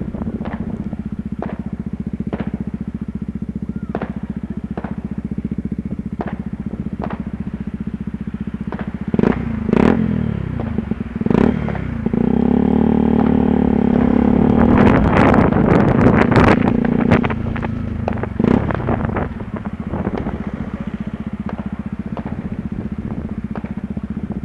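Yamaha WR125R's single-cylinder four-stroke engine running steadily at low speed, with regular sharp clicks about once a second. About nine seconds in the revs are blipped a few times, then the engine runs louder and higher for about five seconds before settling back to the steady lower note.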